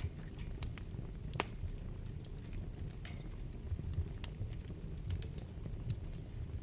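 Wood fire burning in a fireplace: a steady low rumble of flames with scattered crackles and pops, the sharpest about one and a half seconds in.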